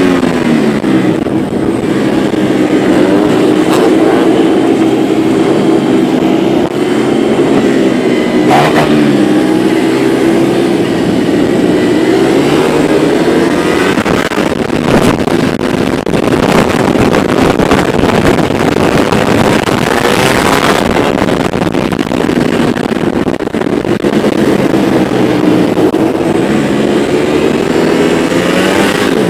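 A group of motorcycles riding together at moderate speed, several engines running at once, their pitches rising and falling as they change speed.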